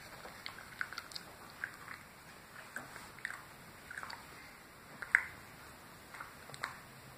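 Close-up mouth sounds of someone chewing a peanut butter brownie: soft, irregular wet smacks and clicks of the lips and tongue, one or two a second, with a sharper smack about five seconds in.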